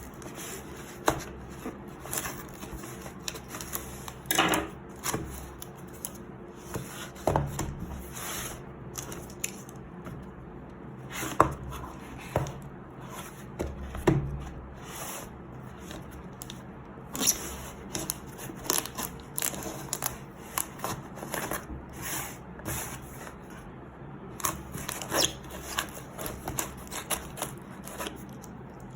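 Cardboard product box being opened and its packaging handled: scattered taps, clicks and rustles of cardboard and paper, some louder knocks among them.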